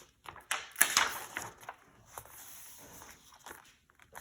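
Handling noise from a picture book: a few sharp clicks and knocks within the first second or so, then light rustling that dies away near the end.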